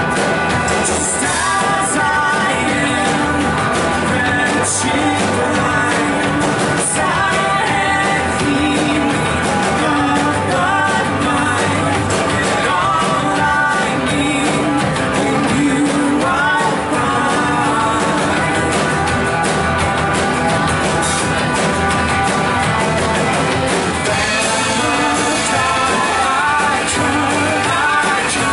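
Live church worship band with electric guitar and drums playing a rock-style praise song while a congregation and singers sing along.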